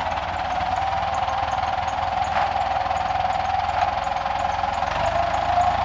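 Engine of the log-handling machine running steadily, with a constant whine over a low rhythmic rumble and a couple of faint knocks.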